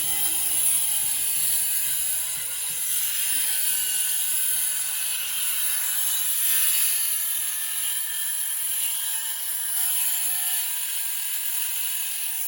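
Angle grinder running steadily while grinding, a continuous high-pitched grinding hiss that swells a little now and then.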